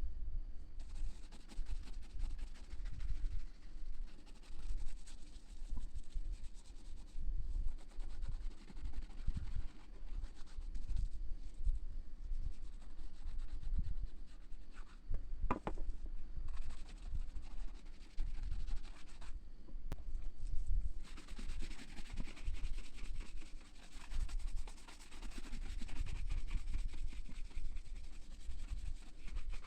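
Hand work on a boot heel during a heel replacement: irregular scraping and rubbing strokes with small knocks. About two-thirds of the way in the rubbing becomes denser and steadier, like sanding.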